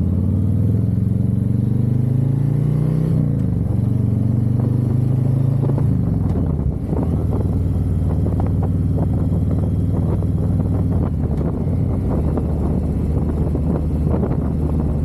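Harley-Davidson V-twin motorcycle engine accelerating through the gears. Its pitch climbs, drops sharply at a shift about three seconds in, climbs again, and drops once more around six to seven seconds. It then runs steady at a lower pitch, with scattered short ticks and knocks over it.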